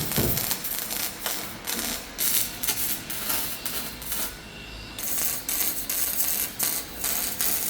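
Irregular metallic clicks and knocks, several a second, from hand work on metal parts.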